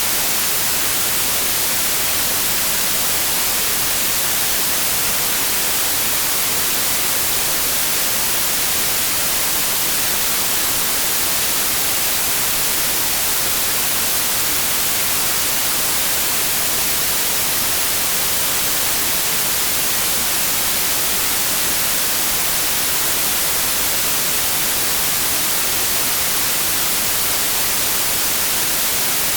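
Steady synthesized white noise: an even, unbroken hiss, strongest in the treble, with no change in level.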